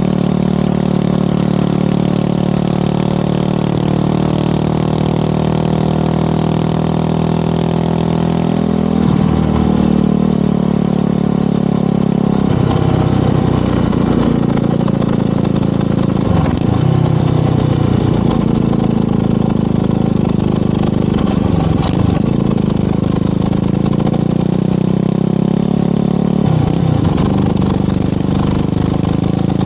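Motorcycle engine running on the move, a steady engine note whose pitch dips and climbs back again about five times.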